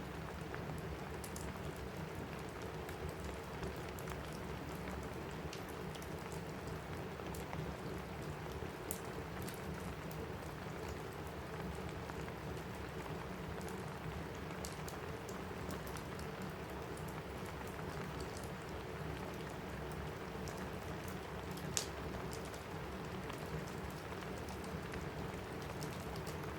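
Steady rain on a cabin roof, mixed with scattered small crackles from a wood fire in a fireplace. One sharper crack comes near the end.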